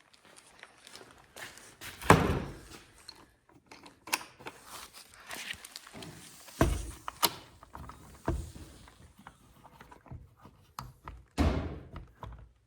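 A hammer knocking a bottom fastener into place: several dull thunks spaced a second or more apart, the loudest about two seconds in and another strong one near the end.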